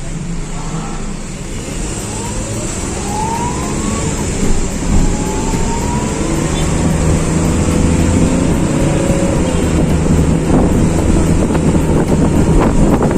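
Road traffic on a rain-wet road: a steady hiss of tyres with engine rumble that grows louder, and two short rising tones early on.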